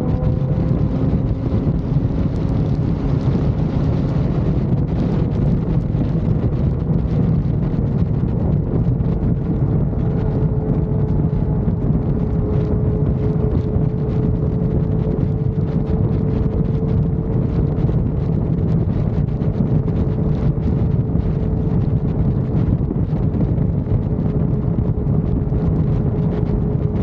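Motorcycle cruising at highway speed: a steady engine note that rises slightly at the start and then holds, under heavy wind noise on the microphone.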